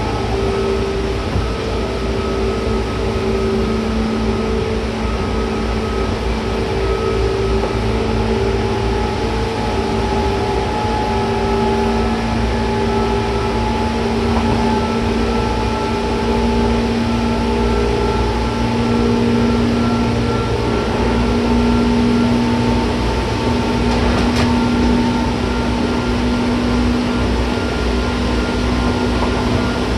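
JR 201 series electric train running at speed, heard from inside the car: a steady rumble of wheels on rail with motor hum in several steady tones. One sharp knock comes about 24 seconds in.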